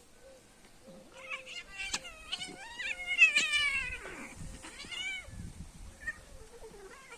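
Domestic cat meowing, a run of drawn-out calls with the longest and loudest in the middle falling in pitch, and a shorter call about five seconds in.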